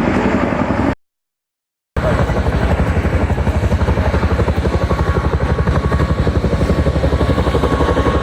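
Motorcycle engine running, a steady rapid pulsing with a faint whine above it. It drops out to dead silence for about a second, about a second in, where the recording is cut.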